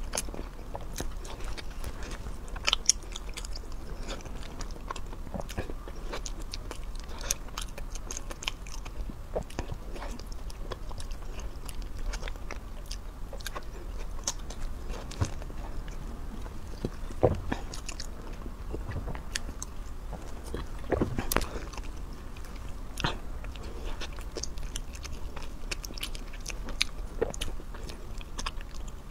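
A person eating close to the microphone: bites and chewing with wet mouth clicks and smacks, a few louder bites now and then.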